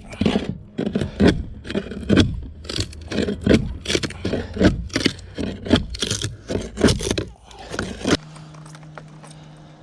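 Rhythmic hand scraping strokes on a fiberglass boat hull, about two to three a second, stopping about eight seconds in. A steady low hum is left after the strokes stop.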